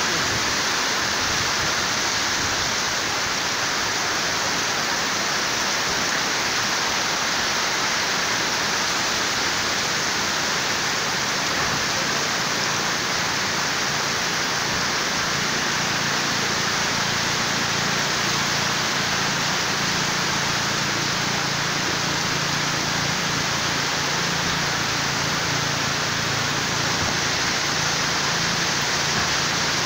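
Heavy tropical downpour in a rain and wind storm: a steady, dense rush of rain, with gusts of wind.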